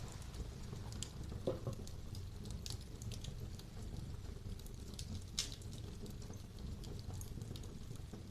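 Wood fire burning in a fireplace: a steady low rumble of flames with irregular crackles and pops, the loudest pops about a second and a half in and about five seconds in.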